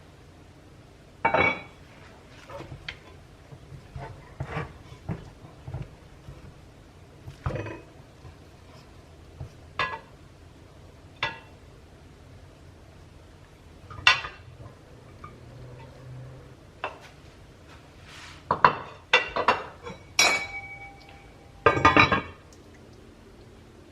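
Dishes and cutlery clinking and knocking: scattered separate clinks, some ringing briefly, coming thicker and faster near the end.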